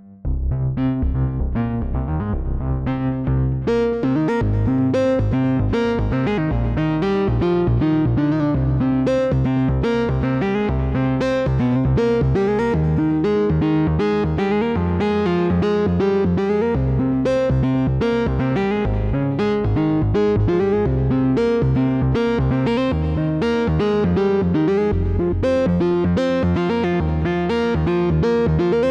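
Moog Messenger analog monosynth playing a fast sequenced pattern of short plucky notes over a bass line, through a delay effect.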